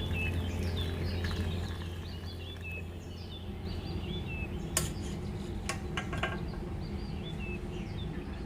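Small birds chirping repeatedly, with a few sharp clinks about five and six seconds in.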